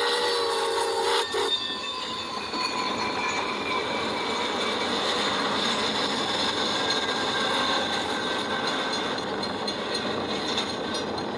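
A train whistle chord sounds and cuts off about a second and a half in. Passenger cars of a train then roll steadily past, with wheels squealing faintly on the rails.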